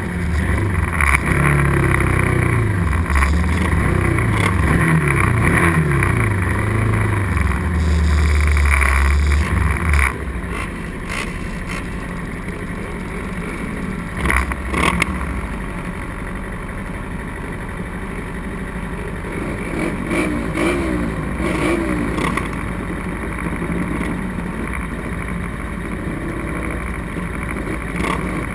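Racing motorcycle engines revving up and down through the gears at race speed. Loud for about the first ten seconds, then quieter and further off, with a few more rises and falls in pitch later on.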